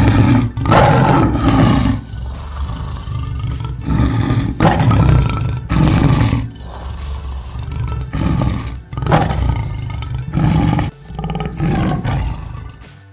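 Tiger roaring and growling, about ten loud roars one after another.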